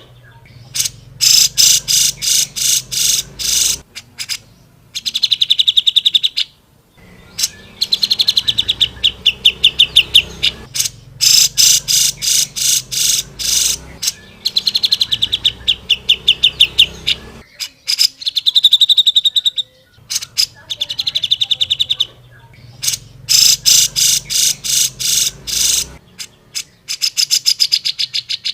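Cucak jenggot, a bulbul, singing loud, fast chattering phrases of sharp, rapidly repeated high notes, each burst lasting a couple of seconds with short pauses between.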